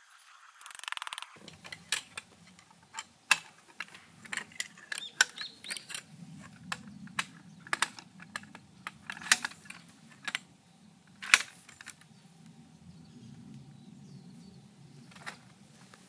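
Irregular clicks and taps of tent poles and fittings being handled while a tent is pitched, the sharpest a few seconds in, around the middle, and a little later, over a faint low rumble.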